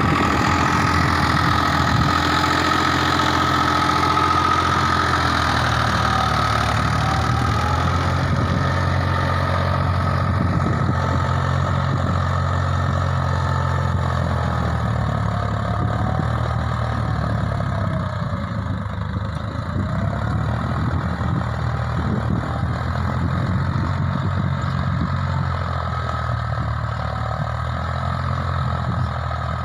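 Swaraj 963 tractor's diesel engine running steadily at an even, low speed.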